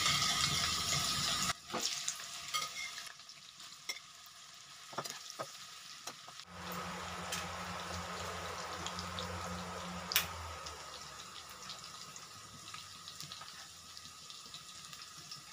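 Jackfruit pieces sizzling as they fry in hot mustard oil in a kadhai, louder in the first second and a half and then fainter, with a few light clicks.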